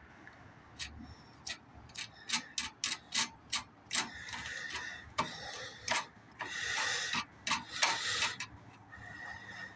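Irregular sharp clicks and taps, with two stretches of scraping, as a machine's air filter housing is handled and opened.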